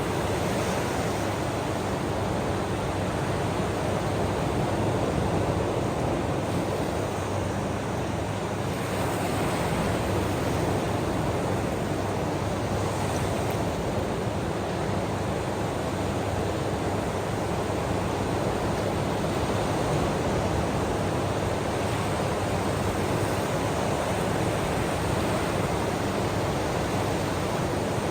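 Steady rushing wash of ocean waves, a constant noise with only slight, slow rises and falls.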